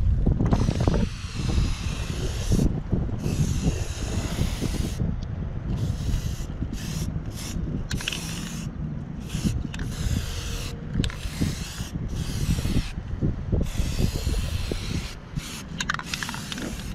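Aerosol spray can of black gloss paint hissing in repeated bursts of about half a second to two seconds, with short pauses between, over a steady low rumble.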